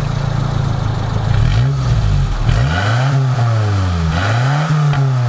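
Four-cylinder off-roader engine heard close at its tailpipe, idling and then revved twice, its pitch climbing and falling each time.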